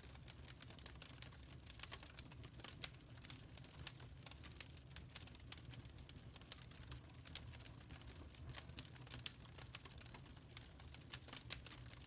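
Wood fire crackling in a firepit: faint, irregular sharp pops and snaps, with a few louder pops, over a steady low rumble.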